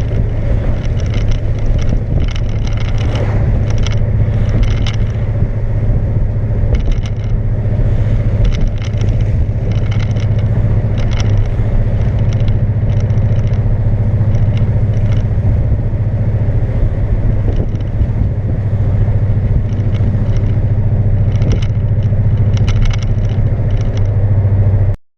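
Subaru flat-four engine droning loudly and steadily while the car is driven, heard through an exhaust whose muffler has blown apart, leaving it effectively straight-piped.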